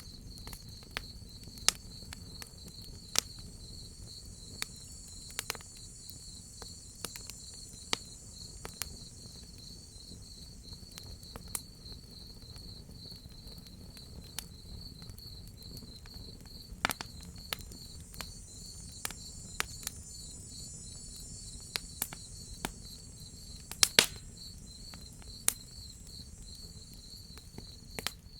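Crickets chirping in a steady, fast pulsing trill, with sharp pops and crackles from a wood fire scattered irregularly throughout; the loudest pair of pops comes about 24 seconds in. A low, even rumble sits underneath.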